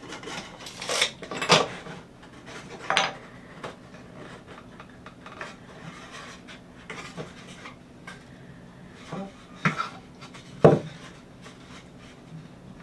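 Wooden boards and tools being handled on a workbench: scattered knocks and clatters, the loudest about a second and a half in and again near the last two seconds.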